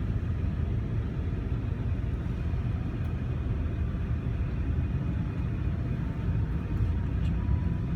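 Steady low rumble of engine and road noise from a moving vehicle, heard from inside the cabin.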